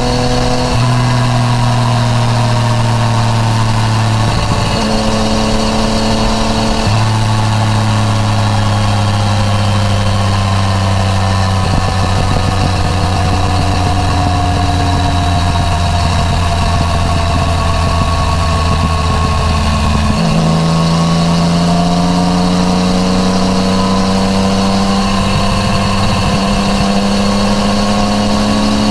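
Yamaha MT-09 Tracer's inline three-cylinder engine through an Akrapovič titanium full exhaust, heard from the rider's seat while riding. Revs stay low and drift slowly, with steps in pitch as gears change; about twenty seconds in the pitch jumps up sharply, a downshift.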